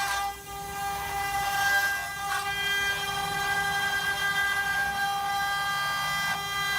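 Four-axis CNC wood-carving machine running, its router spindle giving a steady high-pitched whine as it carves, with a brief dip just at the start and a short change about two seconds in.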